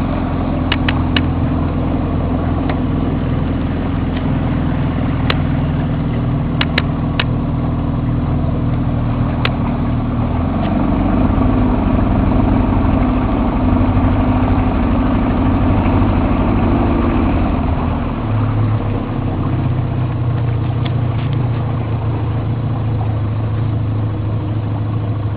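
A fishing boat's motor running steadily under way. About ten seconds in it picks up in pitch and gets louder, and at around eighteen seconds it throttles back to a lower, idling note.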